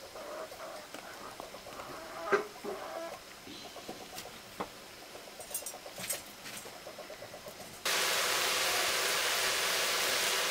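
Faint scattered clicks and knocks, then about eight seconds in a steady sizzle of vegetables frying in hot oil starts abruptly.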